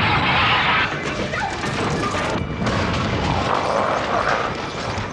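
Loud crashing and booming, the loudest burst in the first second, over a continuing low rumble, with music underneath: the sound effects of earthquake destruction.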